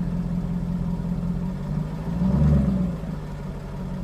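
Car engine idling steadily, briefly revved and falling back about two seconds in.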